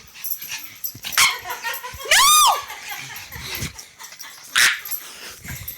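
Dog letting out one high-pitched yelping bark that rises and falls, about two seconds in, with short scuffling bursts before and after it as it acts up.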